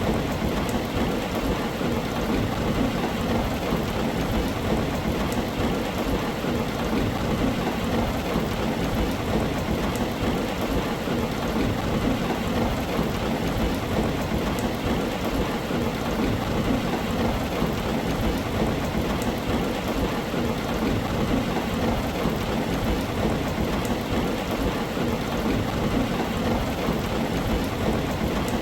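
Heavy rain drumming steadily on a tin roof: a dense, unbroken patter with a deep low undertone and faint scattered drop ticks.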